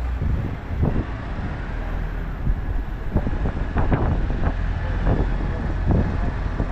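Tractor engines running with a steady low rumble, with irregular gusts of wind buffeting the microphone.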